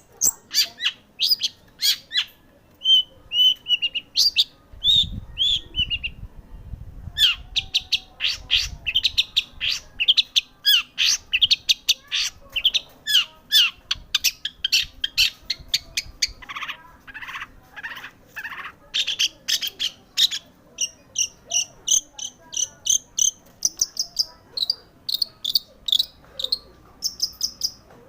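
Long-tailed shrike (cendet) singing a rapid, varied string of short chirps, trills and falling whistles, a song packed with mimicked calls of other birds (its 'isian').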